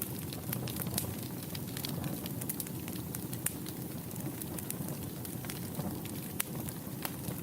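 Wood fire burning in a fireplace: a low steady rumble of flames with frequent small sharp crackles and pops from the burning logs.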